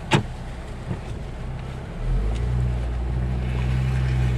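Vehicle engine running steadily at low speed, picking up and getting louder about two seconds in as it pulls ahead. There is one brief sharp click near the start.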